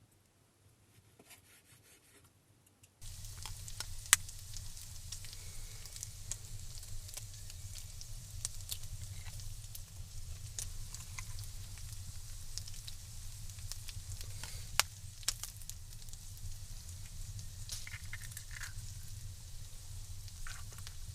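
Meat and eggs frying in a pan: a steady sizzle with scattered crackles and a few sharp pops of spattering fat. It starts about three seconds in, after near silence.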